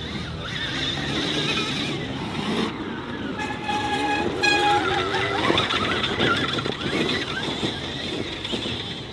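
Vehicle noise with a wavering whine, and a horn sounding two short toots about three and a half seconds in.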